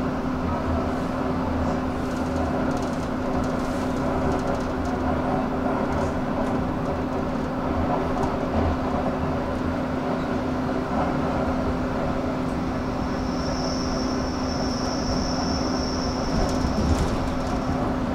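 Roslagsbanan narrow-gauge electric commuter train running along the track, heard from inside the carriage: a steady low hum and rumble with occasional faint clicks. A thin, high, steady whine comes in for several seconds in the second half.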